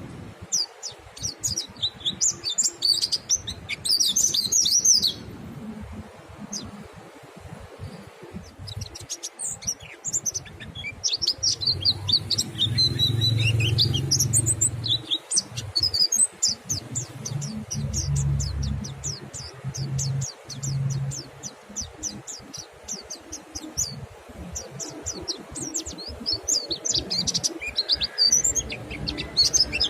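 Mountain white-eyes (pleci monty) twittering in quick, high chirping runs, several birds answering one another, with short pauses between runs. A low rumble runs underneath through the middle.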